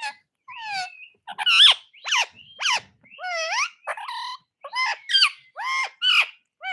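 Pet parrot calling over and over: about a dozen short, loud squawks, roughly two a second, most of them sliding down in pitch.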